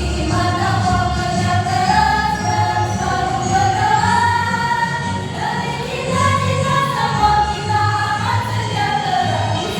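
A choir singing a march song together over instrumental accompaniment with a steady low beat.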